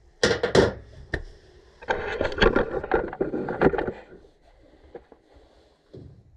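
Handling noise from tools and metal parts: a couple of sharp knocks, then about two seconds of clattering and scraping that dies away to a few faint taps.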